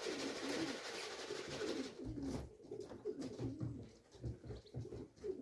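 Racing pigeons cooing, several wavering coos overlapping, with a rushing hiss over the first two seconds.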